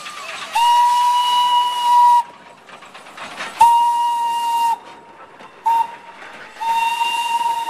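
Steam-train whistle blowing over hissing steam, sounded as several blasts: a long one starting about half a second in, a shorter one around the middle, a brief toot, and a long blast from near the end that carries on.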